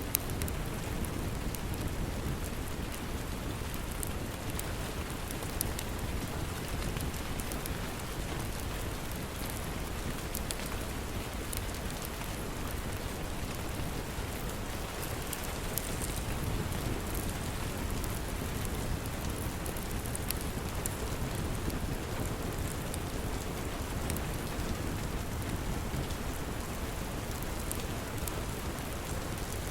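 Steady rain pouring, with scattered sharp crackles from a log fire.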